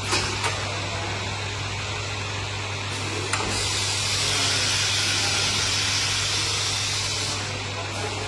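Machinery running steadily with a low hum and hiss, a few sharp clicks, and a louder rushing hiss from about three and a half seconds in until about seven seconds.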